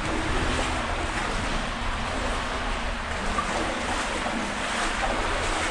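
Steady rush and slosh of shallow river water in a brick culvert tunnel.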